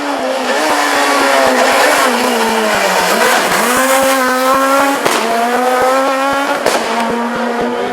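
Rally car engine revving hard: the pitch falls about three seconds in as the car slows, then climbs again in steps as it accelerates through the gears. Two sharp cracks stand out in the second half.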